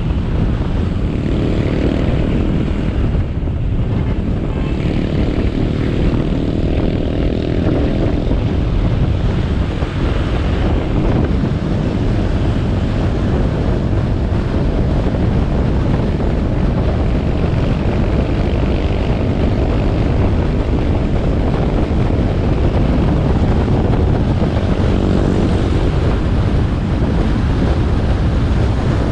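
Motorcycle engine running steadily as the bike rides along, mixed with rushing wind and road noise on the camera microphone.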